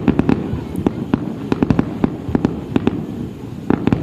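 Fireworks display: aerial shells bursting in quick, irregular succession, several sharp bangs a second over a steady low rumble from the barrage.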